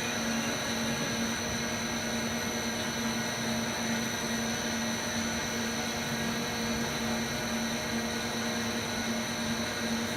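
CNC lathe running steadily: a constant machine hum with a steady high whine over a noisy hiss.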